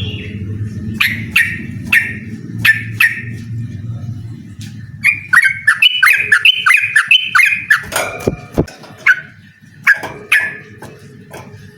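Yellow-vented bulbul calling: several sharp single notes in the first few seconds, then a quick run of bubbly notes alternating high and low about five seconds in, then a few more sharp notes.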